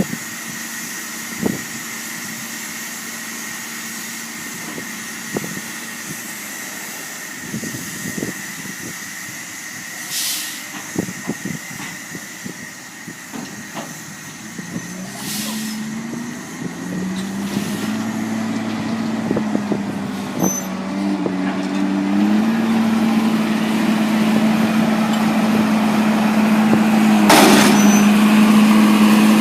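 Diesel engine of a large farm vehicle at silage work drawing nearer and growing louder over the second half, its note rising in steps as it revs. A short hiss comes near the end. Before that there is a steady machinery hum with a high whine and scattered clicks.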